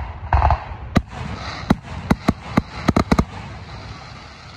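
Fireworks going off: a quick string of sharp bangs, about nine in three seconds, over a steady crackle, thinning and fading away in the last second.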